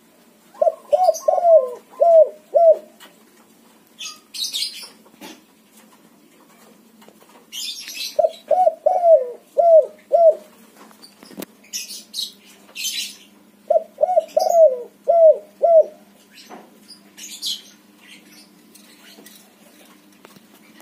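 A white spotted dove (tekukur) cooing in a lively series: three phrases of about six quick coos each, a few seconds apart. Short high-pitched chirps from small birds come in between the phrases.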